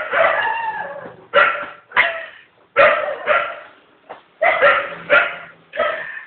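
A dog barking repeatedly, about nine loud barks in irregular succession.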